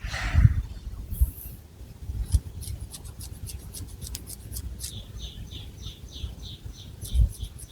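Long fingernails scratching and rustling through hair on the scalp close to the microphone: a run of short, crisp scratchy strokes with low bumps from hand handling. From about five seconds in, a high chirp repeats two to three times a second in the background.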